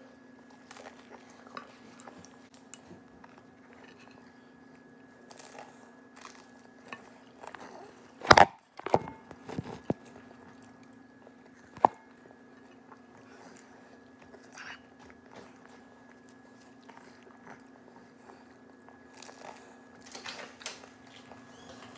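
Close-up eating sounds: chewing and biting into fried bean-sprout spring rolls (lumpiang togue) with rice, with scattered small clicks over a steady low hum. A loud sharp knock about eight seconds in, and another sharp click about four seconds later.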